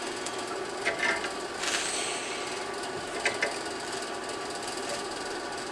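A handful of separate hammer blows on steel at the anvil, irregularly spaced, one with a brief high ring, over steady background noise.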